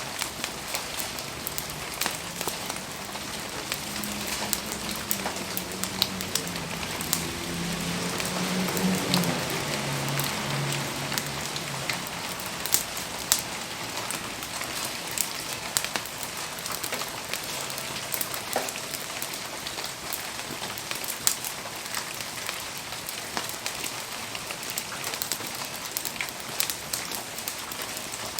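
Steady rain falling on surfaces, with many sharp ticks of individual drops. A low wavering hum comes in about four seconds in and fades out near the twelve-second mark.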